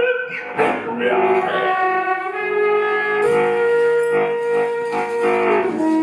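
A live instrumental ensemble playing long held notes over a steady chord, the lowest line stepping down to a lower note near the end.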